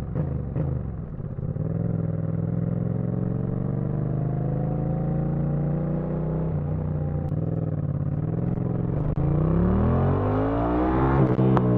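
Yamaha MT-07 parallel-twin motorcycle engine pulling under way, its pitch climbing slowly for several seconds. Near the end it revs up quicker and louder.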